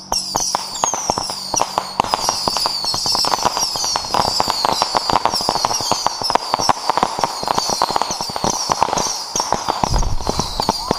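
A homemade bundle of Roman candles firing in rapid succession, dozens of overlapping pops and crackles with short high whistles. A low rumble comes in near the end.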